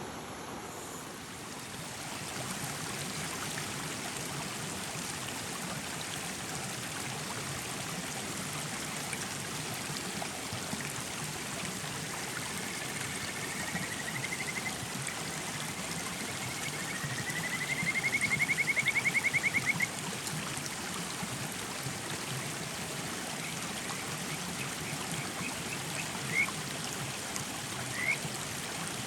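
Small mountain stream running steadily over rocks. Partway through, a high, rapidly pulsed trilling call from an animal rises slightly in pitch and grows loud for a few seconds, and two short upward chirps follow near the end.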